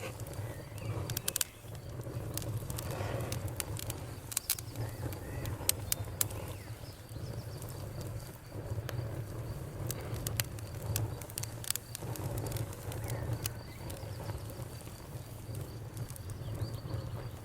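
Bonfire crackling, with irregular sharp pops and snaps over a low steady rumble of the burning fire. Crickets chirp faintly and steadily in the background.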